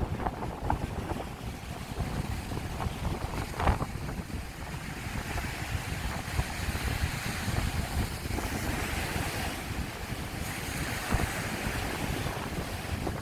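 Sea waves rolling in and washing up the beach in a steady surf, with wind buffeting the microphone.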